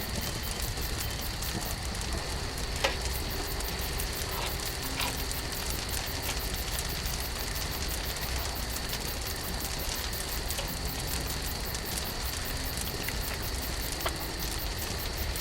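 Wood campfire burning: a steady crackle and hiss, with a few sharp pops.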